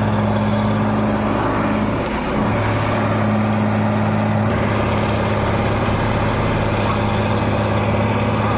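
A vehicle engine running steadily, with a short dip and a change in pitch about two seconds in.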